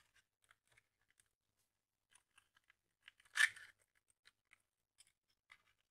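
Faint scattered ticks of small hand tools at work, with one short scraping rasp a little past halfway, the loudest sound.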